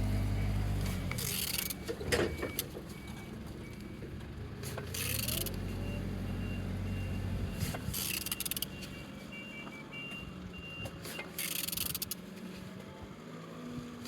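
Used YD62FMK engine being turned over by hand, a short noisy scrape of the wrench and rotating engine about every three seconds, four times. A low steady engine drone runs underneath at the start and again in the middle.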